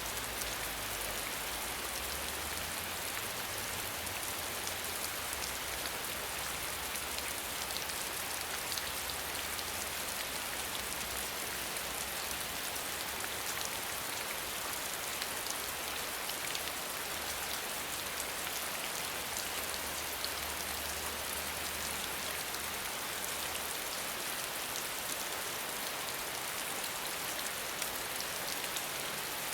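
Steady rain falling: a dense, even hiss of drops with fine individual drop ticks. A low rumble underneath fades out about 24 seconds in.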